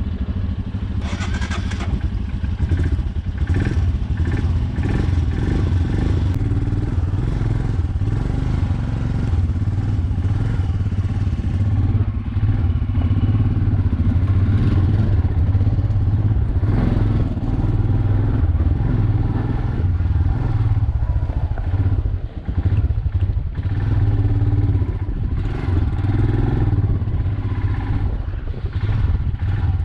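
Motorcycle engine running while the bike is ridden: a steady, low-pitched engine sound whose level rises and falls a little.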